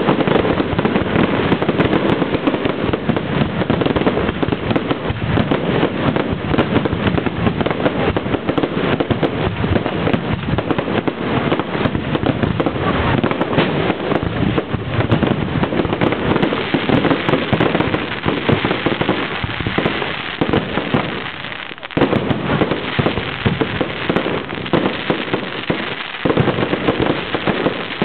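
Fireworks display: a dense, continuous barrage of bangs and crackling, easing briefly about three quarters of the way through, recorded at low quality so it sounds dull and muffled.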